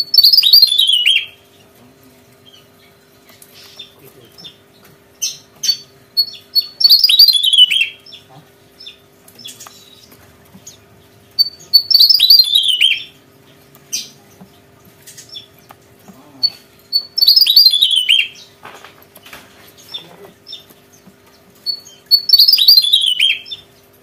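Javan tesia singing: five loud songs, each a quick run of notes falling in pitch over about a second, repeated every five seconds or so, with short single notes in between.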